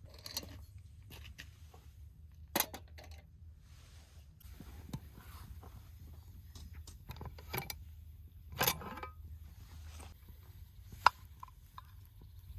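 Scattered clicks, knocks and scrapes of small objects being handled, the loudest a knock about two thirds of the way through and a sharp click near the end.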